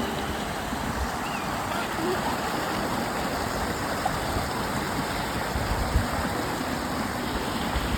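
A small mountain stream rushing steadily over stones, with a low thump about six seconds in.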